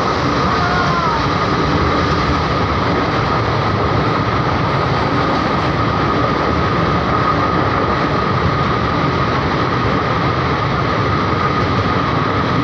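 A passenger train running steadily, with a continuous rumble and rush of noise and a steady high whine. Near the start there is a brief falling squeal.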